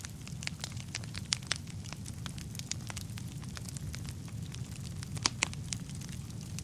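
Wood fire burning in a fireplace: a steady low rumble of flames with frequent sharp crackles and pops of burning logs, the loudest pops a little past five seconds in.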